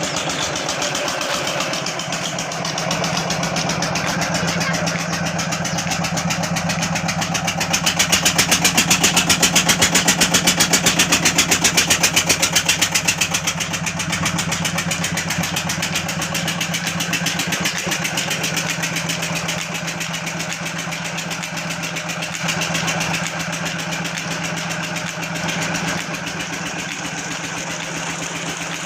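Old Petter stationary diesel engine running steadily with a rapid, even firing beat; it gets louder for a few seconds about eight seconds in, then settles back.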